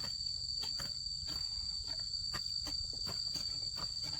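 Steady high-pitched insect chorus of crickets or similar insects, holding two constant tones. Irregular soft clicks and scrapes sound over it, two or three a second.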